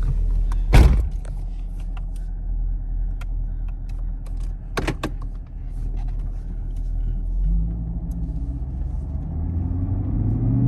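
Chevrolet Camaro SS 6.2-litre V8 on its stock exhaust, heard from inside the cabin: a low steady rumble with two brief thumps, then the engine note comes up and rises in pitch near the end as the car starts to pull.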